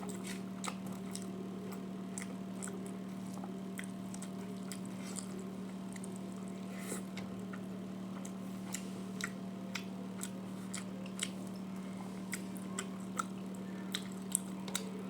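Close-up chewing and mouth sounds of a person eating a meal: scattered wet clicks and smacks, a few louder ones near the end, over a steady low hum.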